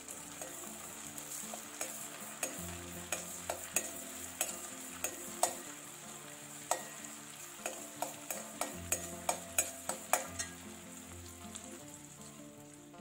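Food sizzling in a hot pan while a utensil stirs it, with many sharp clicks of the utensil knocking and scraping against the pan, most frequent in the middle of the stretch.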